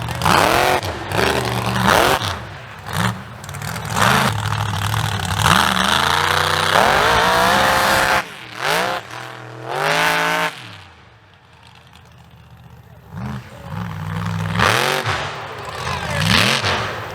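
Mega mud truck's big engine revving hard in repeated bursts, its pitch climbing and dropping with each stab of throttle. It drops to a low, quieter running for a couple of seconds about two-thirds of the way through, then revs up again.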